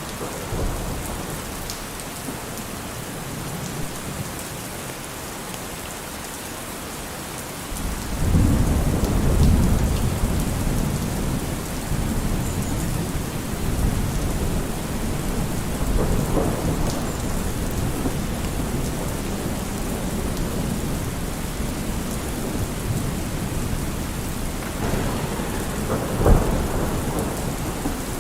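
Steady heavy rain with rolling thunder: a long deep rumble builds about a third of the way in and rolls on, and a sharper thunderclap cracks near the end.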